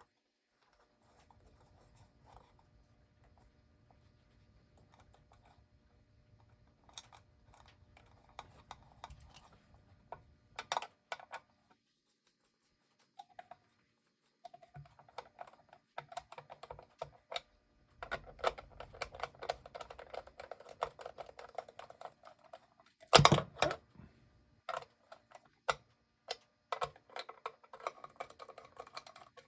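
Small metal nuts being positioned and turned by hand onto the studs of an electric mantel clock's back cover: light clicking and scraping, sparse at first and busier in the second half, with one louder knock about two-thirds of the way through.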